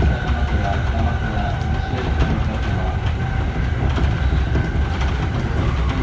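Interior running noise of an E231-1000 series electric commuter train: a steady low rumble of wheels on rail with light clicks and a faint steady high tone.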